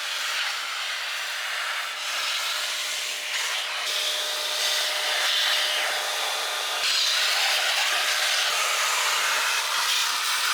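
Household vacuum cleaner running, its motor giving a steady hum under the rushing air, with the airflow changing as the nozzle is worked over the car's interior; it gets louder about seven seconds in.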